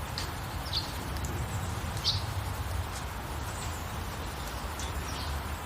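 Steady hiss of rainfall with a low rumble underneath, and a few short, high bird chirps over it; the loudest chirp comes about two seconds in.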